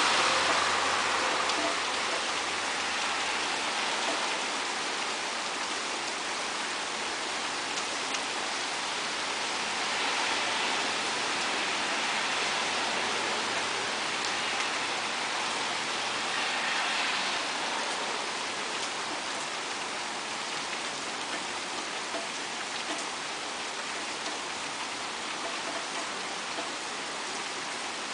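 Steady rain falling and pattering on surfaces, an even hiss that is loudest at the start and eases gradually, with a mild swell partway through.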